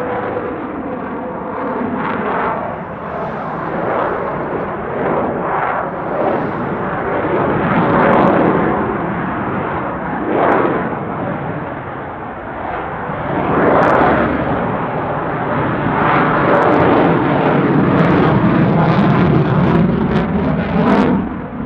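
Military jet aircraft engines running loud, rising and falling in several swells, with sharp crackles breaking through; loudest over the last few seconds.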